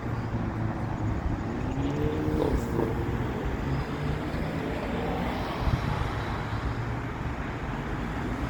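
Road traffic noise with a steady low hum of idling vehicle engines, and a brief pitched sound about two seconds in.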